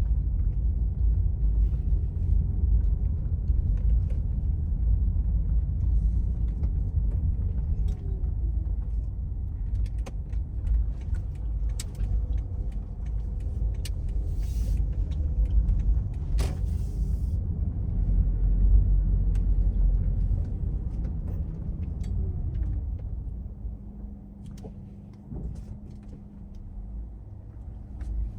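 Car driving on a road: steady low rumble of engine and tyres, with scattered small knocks and clicks. It grows quieter near the end, then picks up again.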